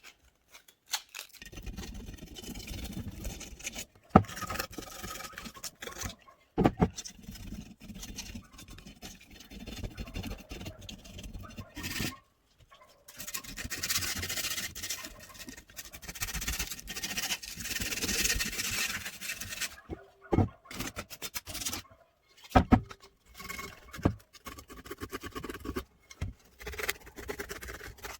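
Scraping and scratching by hand on the cast-aluminium body of an All American pressure canner, cleaning out its small holes, in irregular strokes with short pauses and a few sharp knocks of the tool against the metal.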